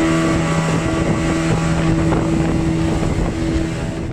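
Motorboat engine running steadily at speed with a constant hum, with wind buffeting the microphone.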